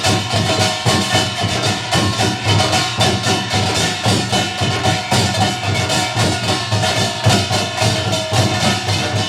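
A Korean pungmul percussion ensemble playing together: dense, steady drum and gong strokes at a brisk, even rhythm.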